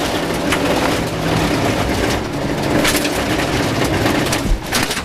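Rover 214 rally car at speed on gravel, heard from inside the cabin: the four-cylinder engine runs hard and steady under a constant rush of tyre and gravel noise, with sharp stone hits against the body and a thump near the end.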